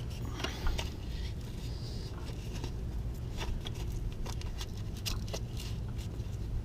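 Scattered light clicks and scrapes of hands working with tools and engine parts, over a steady low hum.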